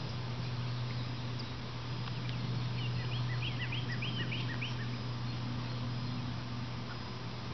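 Steady low hum over a faint hiss. About three seconds in, a bird gives a quick run of short, high chirps lasting about two seconds.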